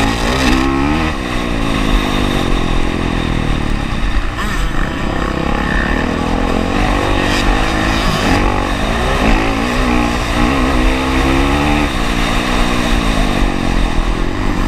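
Honda CRF450R's single-cylinder four-stroke engine revving up and down repeatedly as the motocross bike is ridden hard, heard on board the bike.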